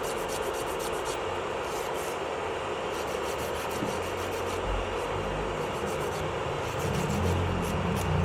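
Electric nail drill (e-file) running at a steady pitch, its bit rubbing and sanding against the nail. A low rumble swells in near the end.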